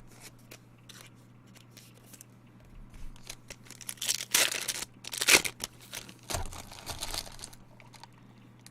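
Foil wrapper of a trading-card pack being torn open and crinkled: a few loud crackling bursts from about four seconds in to about seven and a half, after faint scattered clicks.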